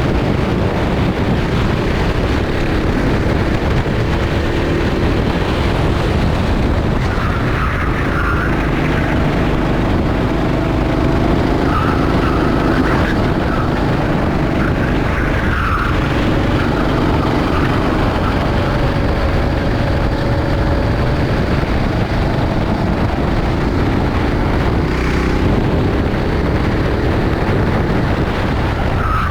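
Rental kart engine running hard at racing speed, its pitch rising and falling gently, with a few short tyre squeals.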